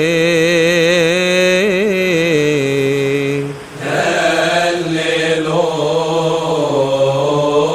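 A man's voice chanting a long, wordless, wavering melismatic phrase, breaking off briefly about three and a half seconds in, then starting another drawn-out phrase.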